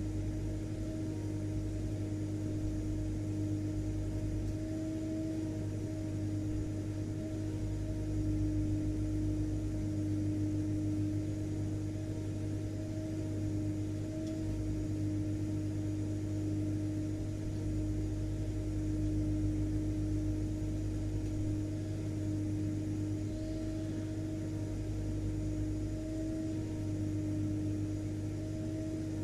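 Vacuum cleaner running steadily: an even motor hum with a constant pitched tone over a wash of noise, unchanging throughout.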